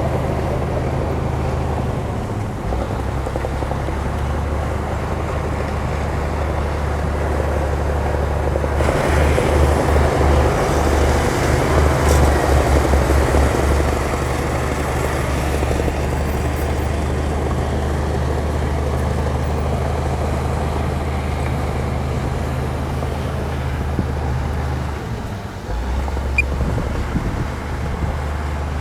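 Heavy earthmoving machine's diesel engine running steadily, working harder and louder for several seconds about a third of the way in, with a brief drop and a short knock near the end.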